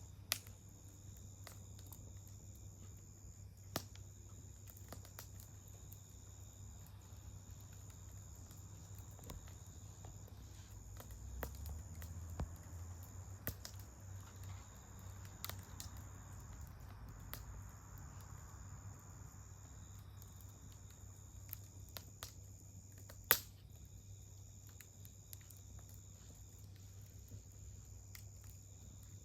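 Wood campfire crackling, with sparse sharp pops, the loudest about 23 seconds in, over a faint steady low hum and a thin, steady high-pitched tone.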